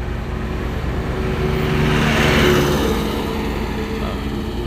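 A truck's diesel engine passing close by: a steady engine hum with tyre and engine noise that swells to a peak about two seconds in and then fades as it moves away.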